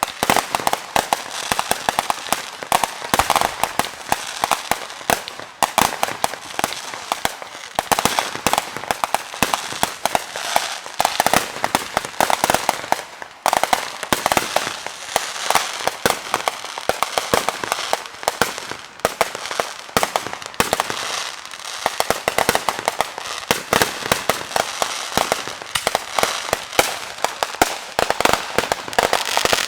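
Fireworks crackling and popping in a dense, continuous rattle of rapid sharp reports.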